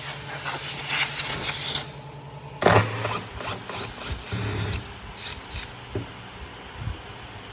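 Workshop tool sounds. A loud, steady hiss stops about two seconds in. After a short pause comes a sharp knock, then a run of clicks, knocks and brief mechanical whirs.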